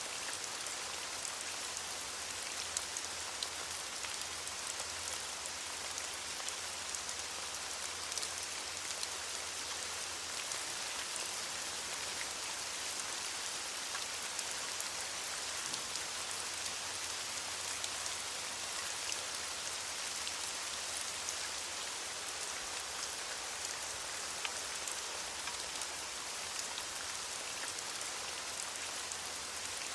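Steady rain falling on leaves: an even hiss with many small drop ticks scattered through it.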